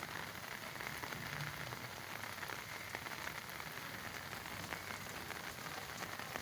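Steady rain falling on wet ground, a constant hiss with scattered drop ticks.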